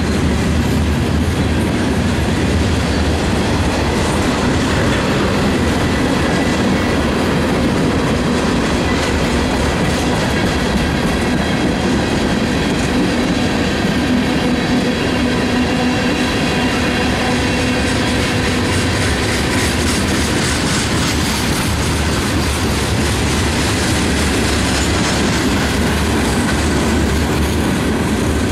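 Freight train cars (flatcars, tank cars and covered hoppers) rolling past close by: a steady rumble with the clatter of wheels on the rails. A faint high wheel squeal comes and goes through the middle.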